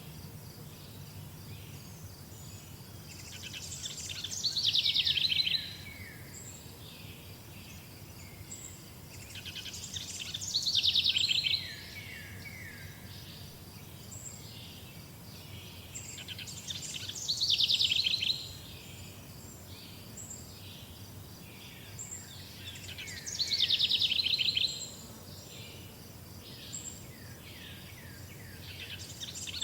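A songbird repeating the same song four times, with the start of a fifth near the end: each a trill of about two seconds that falls in pitch, coming about every six and a half seconds. Faint, short, high chirps sound between the songs over a low steady background rumble.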